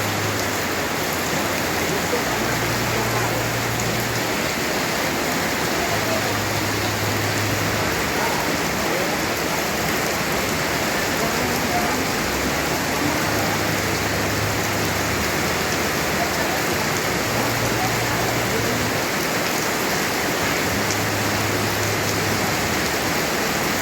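Heavy rain falling steadily: a dense, even hiss of rain on surfaces that holds at the same level throughout.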